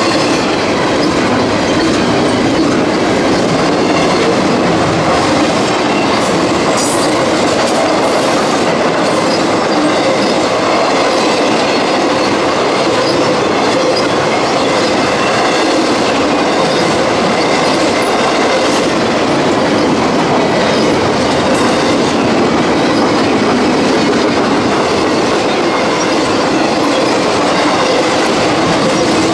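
Freight train cars rolling past in a steady, continuous clatter of steel wheels on the rails, with faint high wheel squeal.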